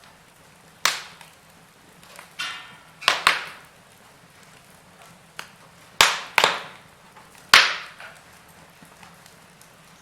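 Log fire crackling: burning wood gives off irregular sharp pops and cracks, several loud ones close together in the middle, over a faint steady background.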